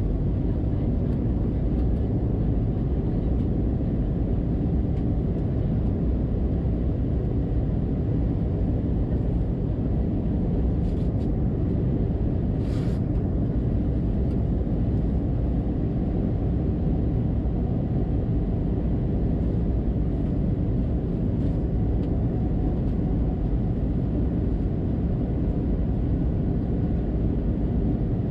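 Cabin noise inside an Airbus A320-200 passenger jet: a steady low rumble of engines and airflow that does not change.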